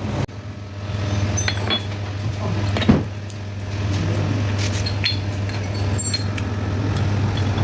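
Metal tools and small parts clinking as they are handled, with one louder knock about three seconds in, over a steady low hum.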